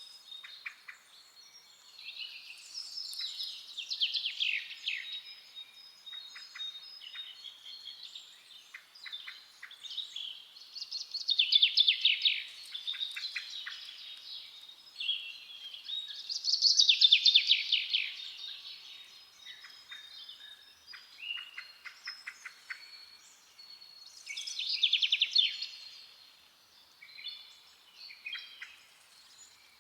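Forest songbirds singing: loud, rapid trilled phrases come about every five to seven seconds, with quieter chirps and short trills in between.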